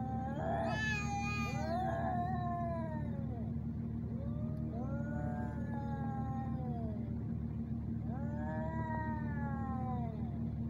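Two tomcats caterwauling at each other in a fight standoff: long, drawn-out yowls that rise and fall in pitch. The two voices overlap in the first few seconds, then come two more long yowls, with a steady low hum underneath.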